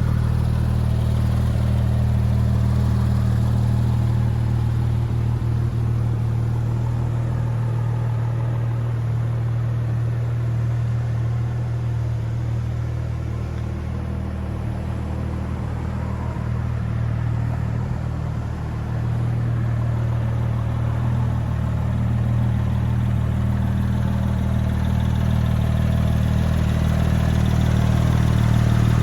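2010 Porsche 911 GT3's 3.8-litre flat-six idling steadily through its aftermarket side pipes, with no revving. It is a little quieter for a few seconds midway.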